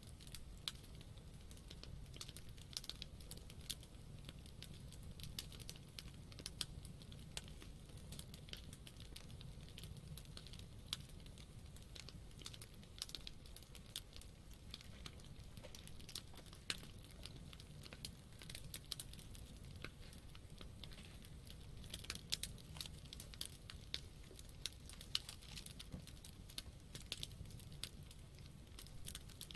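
Wood campfire burning, with frequent irregular crackles and pops from the burning wood over a quiet low rumble.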